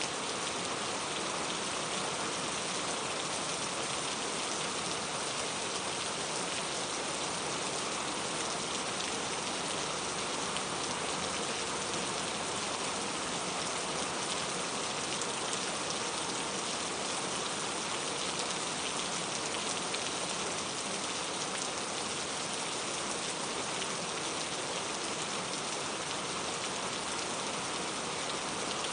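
Steady rain falling and pattering on surfaces, an even hiss with fine drop detail and no change in intensity.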